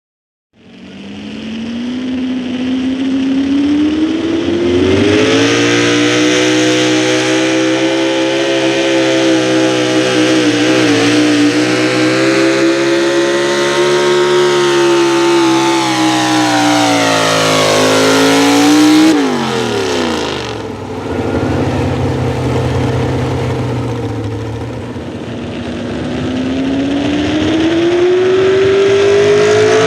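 Pro Stock four-wheel-drive pulling truck's engine at full throttle during a pull. It rises in pitch at the start, holds high and loud for most of the run, drops sharply about two-thirds of the way through, then climbs again near the end.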